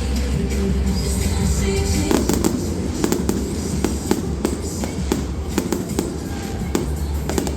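Fireworks going off, with a steady deep rumble and, from about two seconds in, a dense run of sharp crackling pops, heard over music.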